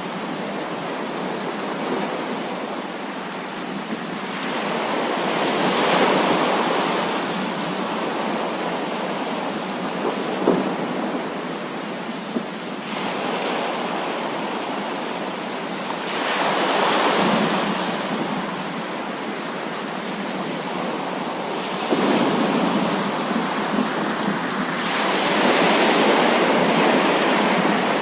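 Heavy rain falling steadily, with rolling thunder swelling up three times and a couple of short sharp cracks around the middle.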